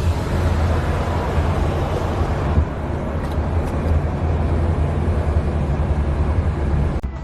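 Steady vehicle noise: a low rumble under a rushing hiss, with no clear rhythm, cutting off suddenly near the end.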